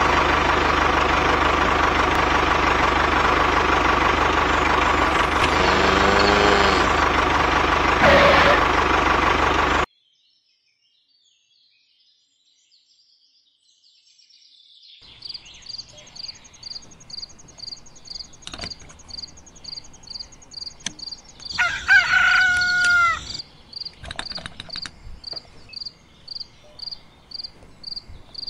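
A loud, steady engine sound, like a tractor running, for about the first ten seconds, then it cuts off suddenly. After a few seconds of near silence, farmyard ambience fades in: an insect chirping about twice a second, a few light clicks, and a rooster crowing once about twenty-two seconds in.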